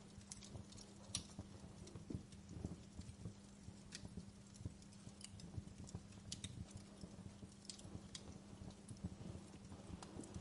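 Wood fire crackling: quiet, irregular small pops and snaps over a steady low hum.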